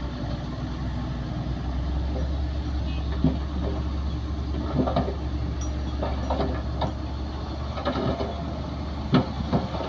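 Bulldozer's diesel engine running steadily, with several sharp metallic clanks at irregular intervals.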